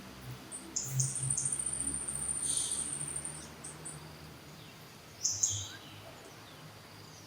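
High-pitched animal chirps with a thin, steady trill lasting about two and a half seconds, then a short burst of chirps about five seconds in.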